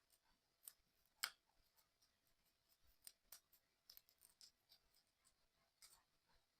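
Faint, irregular small clicks and taps of puzzle-kit parts being handled and fitted together, the sharpest click about a second in.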